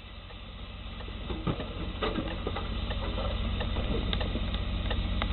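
An engine running with a rapid low pulsing rumble that grows steadily louder, with scattered knocks and rattling clicks over it.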